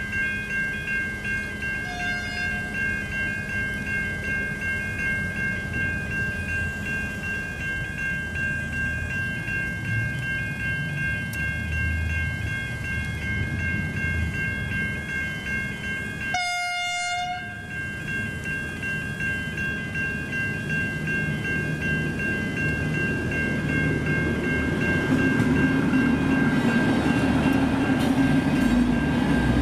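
Level crossing electronic bells (Safetran Type 3 e-bells) ringing steadily as a V/Line VLocity diesel multiple unit approaches. The train's horn sounds briefly about two seconds in and gives a louder blast of about a second about halfway through. The train's rumble grows in the last few seconds as it reaches the crossing.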